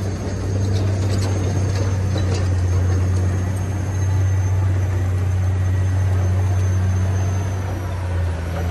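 Steady low engine-like drone from an RC construction machine at work, unchanging throughout, with a few faint clicks in the first couple of seconds.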